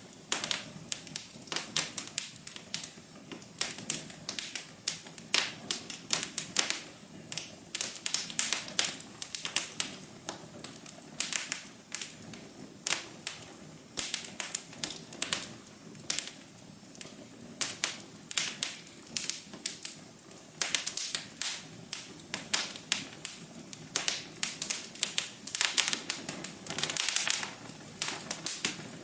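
Wood fire in a fireplace crackling: irregular sharp pops and snaps, several a second and some louder than others, over a soft steady low hum.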